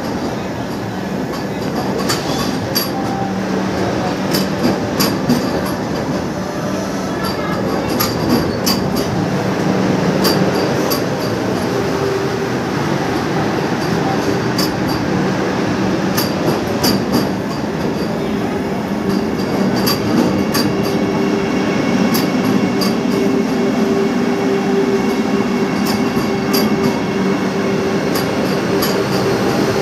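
Vande Bharat Express electric train set pulling slowly in along the platform: a steady rolling rumble with a faint hum, and wheels clicking sharply and irregularly over rail joints.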